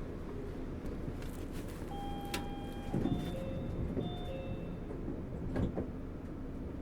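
Steady running rumble inside a Kobe New Transit 3000-series automated guideway train car, with a short electronic chime of several held tones about two seconds in and a couple of dull thumps.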